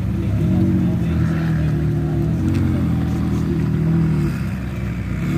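Sports car engine running at low revs, its pitch rising and falling slightly.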